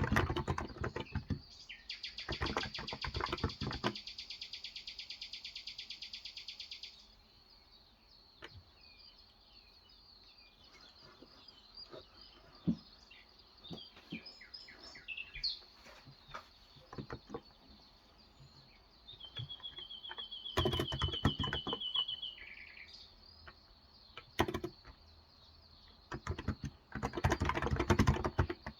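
Typing on a Cox Endeavour electro-capacitive (Topre-style) 35 g keyboard in short bursts with pauses between. Birds chirp outdoors, with a long, rapid, evenly repeated trill early on and a shorter trill later that drops in pitch at its end.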